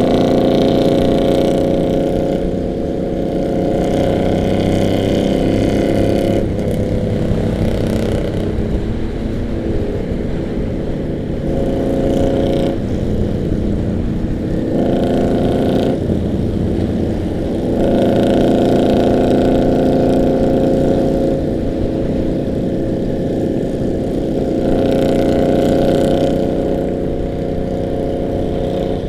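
Harley-Davidson V-twin motorcycle engines running while riding, the engine note swelling and easing off several times with the throttle, strongest near the start and again around the middle and near the end.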